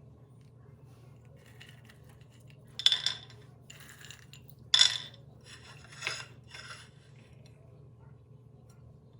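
Kitchen utensils and dishes clinking and scraping about five times, with two sharp loud clinks about three and five seconds in, over a steady low hum.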